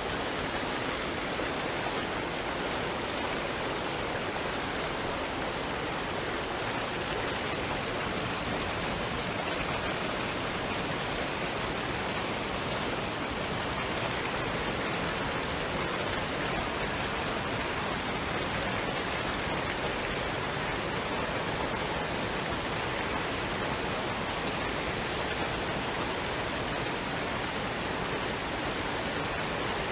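Waterfall and stream water rushing in a steady, unbroken wash of noise.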